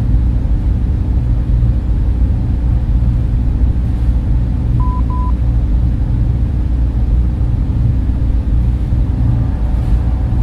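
Server room fans running with a steady, deep hum that never changes. Two short high beeps sound close together about five seconds in.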